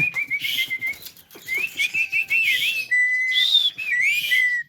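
Javan myna whistling and chattering. A quick run of clear whistled notes is followed by warbling notes, a held whistle, a higher note and a final swooping whistle that falls away near the end. Harsh, raspy chatter is mixed in between.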